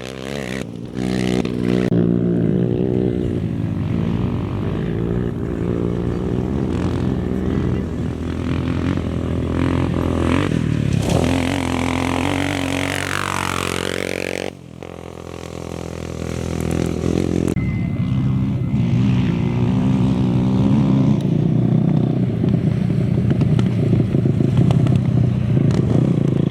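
Engines of off-road race motorcycles and quads running and revving as they pass, the pitch rising and falling, in several abrupt cuts from one machine to the next.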